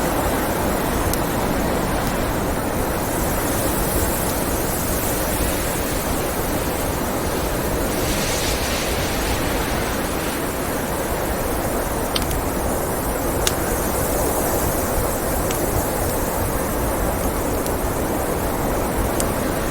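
Blizzard wind as a loud, steady rushing noise, with a wood fire crackling under it and a few sharp pops, the clearest about twelve and thirteen seconds in.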